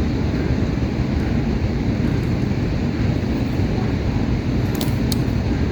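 Steady rushing noise, heaviest in the low end, with two short clicks near the end.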